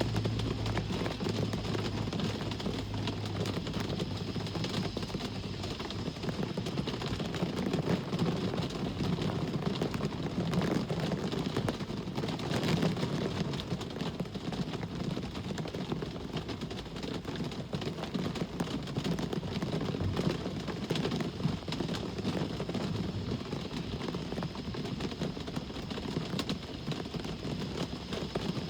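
Steady rain, a dense patter of drops, with road traffic passing. A low engine hum at the start fades out about six seconds in.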